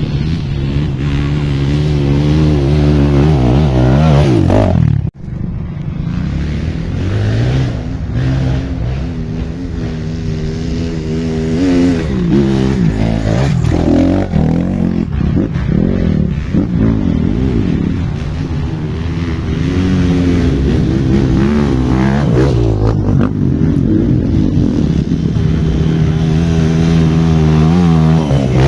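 Off-road trail motorcycle engine running under load, its pitch rising and falling as the throttle is worked. The sound cuts out sharply for an instant about five seconds in.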